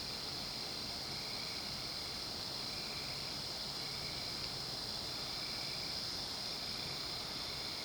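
Steady chorus of night insects, a continuous high shrill, with a fainter, lower insect call repeating about once a second.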